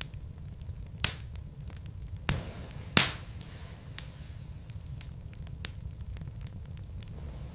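Burning wood logs in a fireplace crackling over a low, steady rumble of the fire, with several sharp pops, the loudest about three seconds in.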